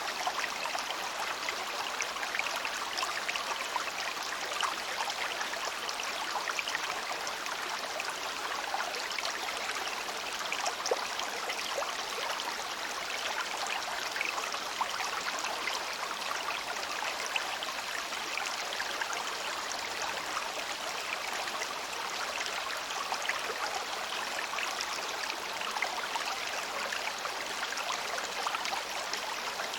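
A small river's shallow stream babbling steadily over stones, a continuous rush of water with many small splashes and trickles.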